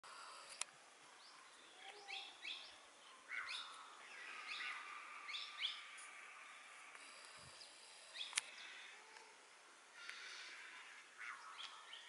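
Faint chirping of small birds: clusters of short calls that drop in pitch, over a light background hiss, with two sharp clicks, one just after the start and one about eight seconds in.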